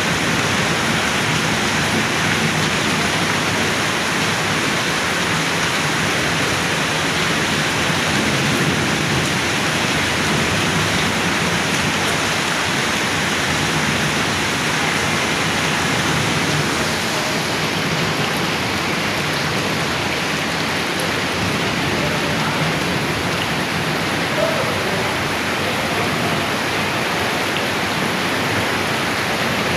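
Heavy rain falling steadily, a loud, even hiss of rain on surfaces.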